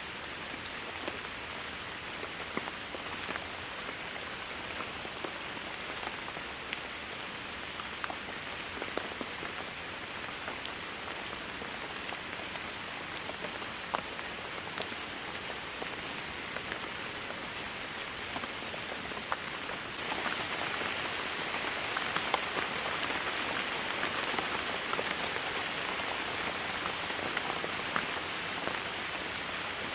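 Steady rainfall: an even hiss with scattered sharp hits of single drops close by. About two-thirds of the way through the rain turns heavier and louder.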